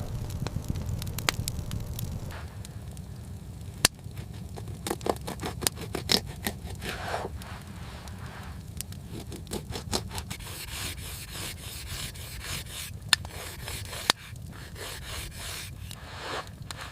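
Hand work with scraping and rubbing sounds and scattered sharp clicks, over a steady low rumble.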